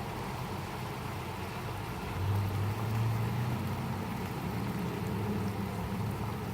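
Steady heavy rain from a passing squall, with a low motor hum underneath that swells about two seconds in.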